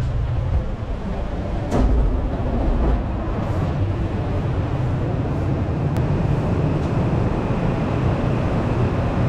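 Steady low rumble of a moving vehicle, with a couple of faint clicks.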